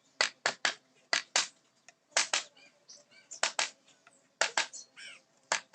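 Sharp taps of a carving chisel being struck into teak wood, coming in quick pairs and threes. A bird chirps faintly in the background.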